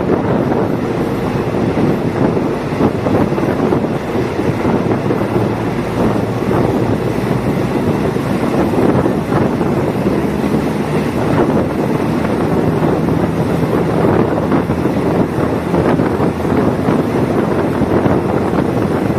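Diesel multiple unit train running steadily: a constant rumble of wheels on rail and the diesel engine, with wind buffeting the microphone. A low steady engine hum comes up about halfway through.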